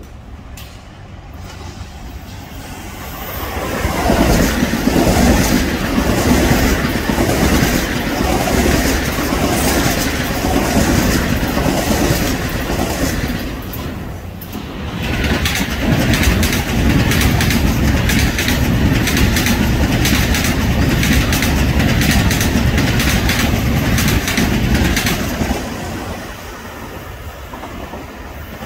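Electric commuter train running past on the tracks, wheels clacking over rail joints in quick succession. The noise builds about four seconds in, dips briefly midway, swells again and falls away near the end.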